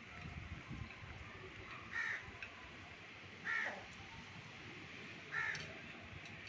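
A bird giving three short calls, about one and a half to two seconds apart.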